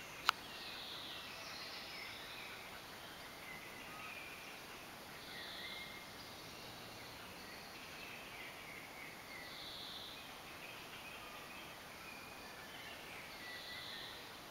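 Faint outdoor background noise with distant bird calls coming and going every few seconds, and one sharp click just after the start.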